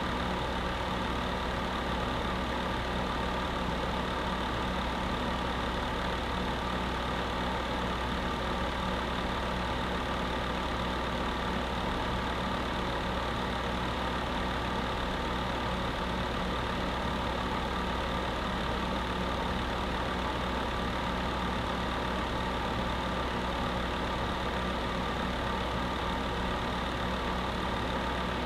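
Electric space heater running: a steady whir with a low hum under it, unchanging throughout.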